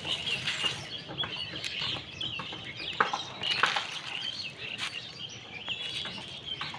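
Birds chirping with many short, quick repeated calls, with a few sharp crackles, the loudest about three seconds in.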